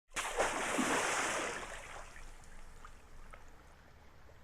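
Sea water washing on the shore: a wash that comes in suddenly, is loudest for the first second and a half, then fades to a low steady wash with a few faint clicks.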